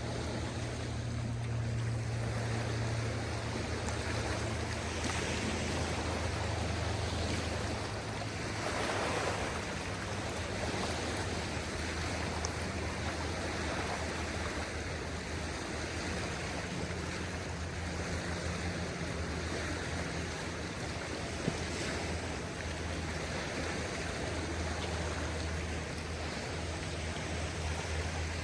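Small waves washing on a beach in a calm sea, a steady wash with gentle swells, over a low rumble of light wind on the microphone.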